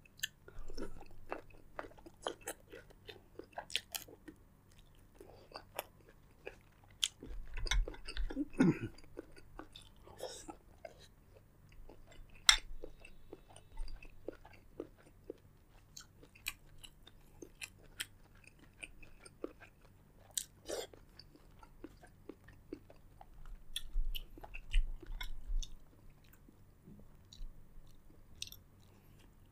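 A person eating seafood boil close to the microphone: irregular chewing and biting with many sharp clicks, growing louder for a couple of seconds about a quarter of the way in and again near the end.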